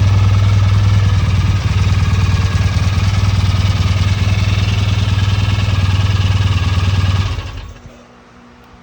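1966 BSA A65L's 650 cc parallel-twin engine running steadily and evenly, its misfire cured now that the weak battery is dealt with. About seven seconds in it is switched off and dies away within a second, followed by a single short knock at the very end.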